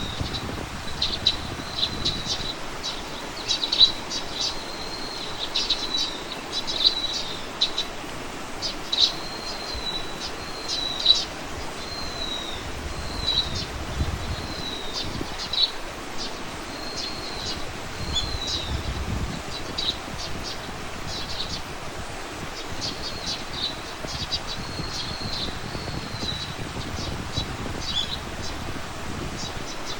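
Songbird chirping, short high notes and quick slurred calls repeated about once a second, over a steady outdoor hiss with a few brief low rumbles of wind on the microphone.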